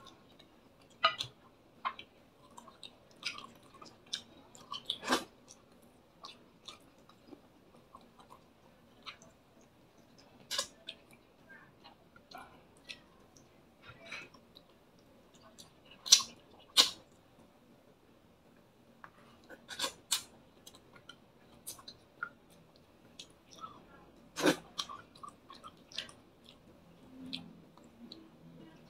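Close-up mouth sounds of a man eating fried fish and squid by hand: irregular chewing and lip smacks, with sharp clicks scattered throughout, the loudest about 5, 10, 16, 20 and 24 seconds in.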